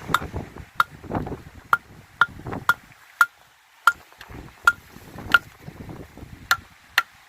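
A bushcraft knife being batoned through firewood: about eleven sharp knocks of a wooden baton on the knife's spine, each with a short metallic ring, as the blade is driven through a knotty piece. Wind buffets the microphone in the first couple of seconds.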